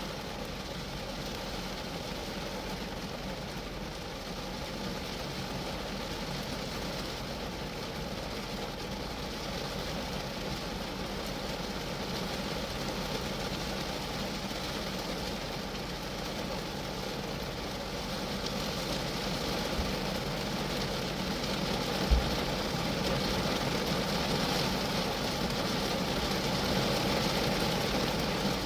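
Rain falling steadily on a Geo Metro, an even hiss of drops on the car's body that slowly gets louder. A single brief low thump comes about three quarters of the way through.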